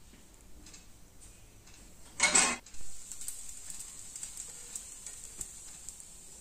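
Faint sizzling of a dosa crisping on a hot non-stick tawa, with a brief loud burst of noise about two seconds in.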